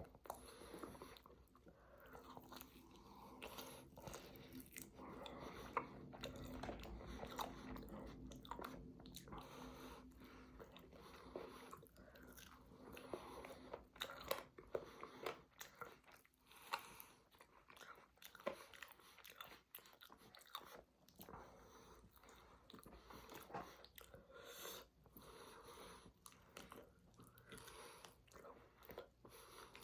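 A person chewing and biting food close to the microphone, with irregular wet clicks and crunches at a low level.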